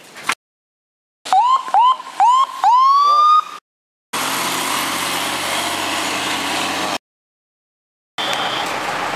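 Emergency siren whooping: about five short rising sweeps in quick succession, the last one drawn out longer. After a cut comes about three seconds of steady rushing noise.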